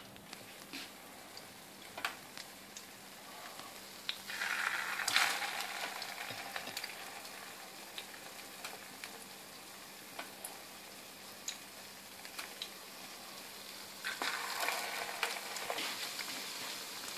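Egg-dipped chicken vegetable cutlets shallow-frying in oil in a pan, with a steady sizzle. The sizzle swells twice, about four seconds in and again near the end, as cutlets are laid into the oil. A few light clicks are heard.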